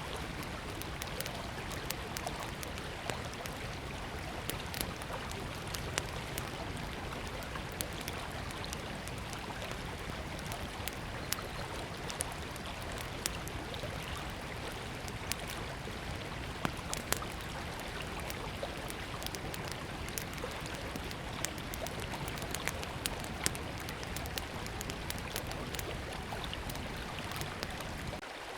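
Small wood campfire crackling with irregular sharp pops, over the steady rush of a river.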